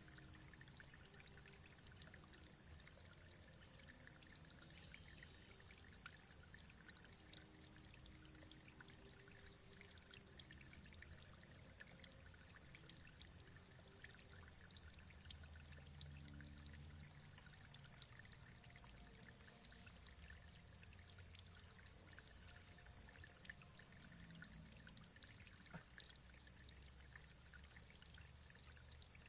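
Faint, steady running water with many small scattered drips and ticks.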